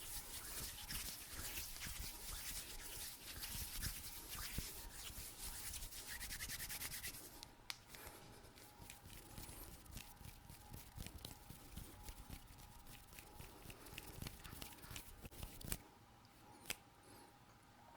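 Close-miked ASMR hand sounds: fast, dense rubbing and scratching of skin for about seven seconds, then quieter, with scattered quick taps and clicks for the rest.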